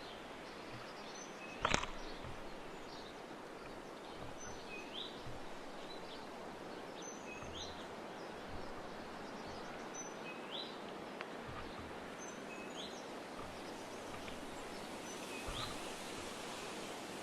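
A wild bird repeating a short call about every two to three seconds, each a brief high note with a quick upward sweep, over steady outdoor hiss. A single sharp knock about two seconds in.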